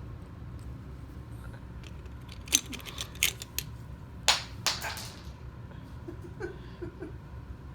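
Seashells clattering onto the floor as a Moluccan cockatoo throws them one at a time: a handful of sharp, separate clicks in the middle, the loudest about four seconds in.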